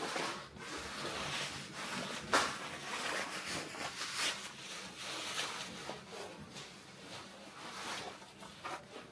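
Rustling and handling noises of winter clothing being put on, with a sharp knock about two seconds in.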